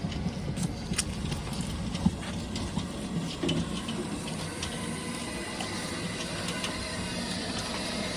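Narrow-gauge steam locomotive hissing steam over a steady low rumble. Scattered metallic clicks and clanks come in the first half, the sharpest about two seconds in, and the hiss grows stronger toward the end.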